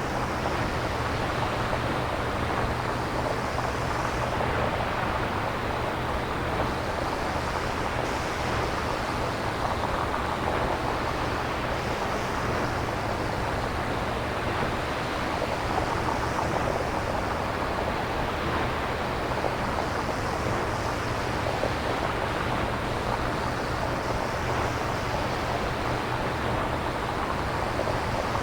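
Synthesizer-generated nature soundscape: a steady rushing noise like surf or wind over a low rumble, its upper hiss swelling and falling about every four seconds.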